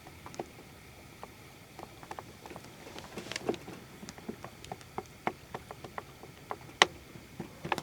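A string of irregular light clicks and taps, one sharper click standing out near the end, over a faint steady background.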